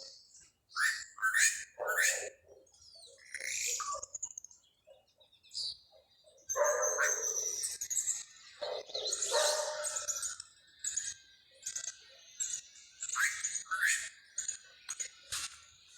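Several birds chirping and singing, with quick high chirps and trills throughout and a couple of louder, lower calls about 7 and 9 seconds in.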